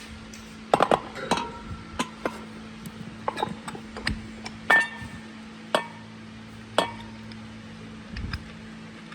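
Metal parts and tools clinking and tapping against each other in irregular single knocks, a few of them ringing briefly, over a faint steady low hum.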